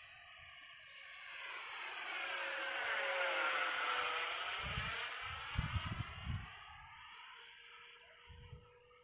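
Yak-130 model jet making a low pass: its high turbine whine swells, peaks about three to four seconds in, and fades away. A few low thumps come near the middle.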